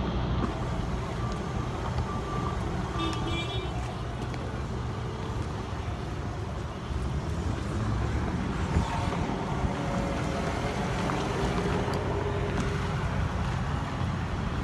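A motor vehicle's engine running steadily, a low even rumble, with a few light clicks.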